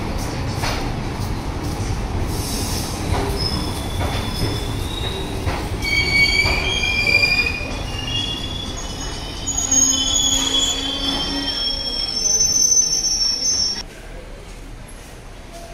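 Indian Railways sleeper coaches rolling slowly past along a platform as the express arrives, a low rumble with wheels clicking over rail joints. After about six seconds, high squealing in several tones sets in as the train brakes. The squealing stops abruptly near the end.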